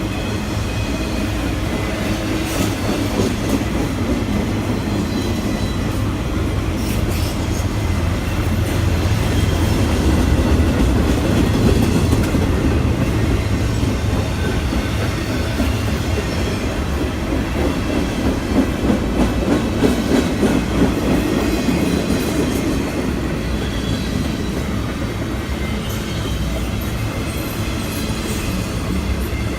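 A train rolling past: a continuous rumble with wheels clicking over rail joints, swelling to its loudest about ten to twelve seconds in.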